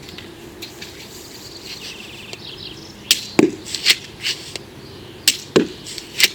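3D-printed pump-action crossbow being worked by hand: a quick series of about nine sharp plastic clacks and snaps starting about three seconds in, two of them with a deeper knock.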